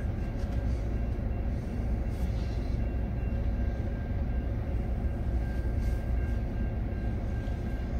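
Freight train of covered hopper and tank cars rolling past a level crossing: a steady low rumble of steel wheels on rail, heard from inside a stopped car.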